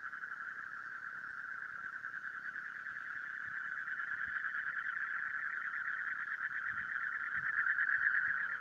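A steady, rapidly pulsing trilling chorus of animal calls that grows louder near the end.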